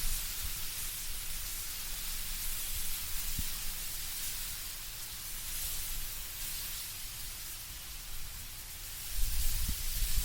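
Wind blowing through autumn trees, a steady hissing rustle of leaves, with a low rumble of wind that swells near the end.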